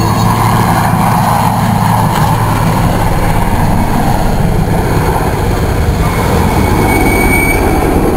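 IAR 330M Puma helicopter in flight: its twin turbine engines and four-blade main rotor run loud and steady, with a fast rotor chop.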